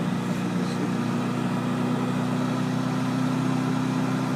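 Honda CBR1000RR's inline-four engine running at a steady speed, a constant even hum with no change in pitch.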